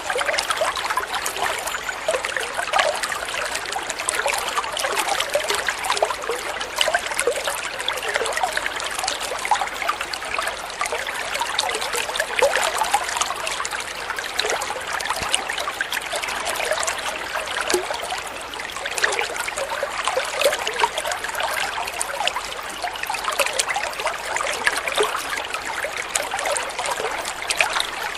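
Flowing water trickling and burbling steadily, like a small stream running over stones.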